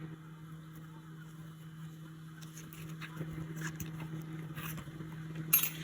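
Steady low hum under faint scattered clicks and rustles of hands working yarn with a crochet hook, with one brief louder rustle near the end.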